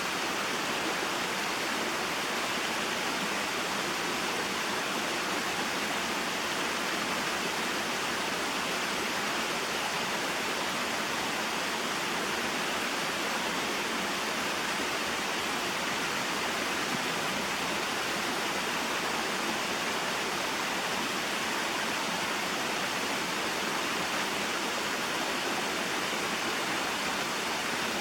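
Small mountain waterfall and stream: a steady rushing of flowing water, unchanging throughout.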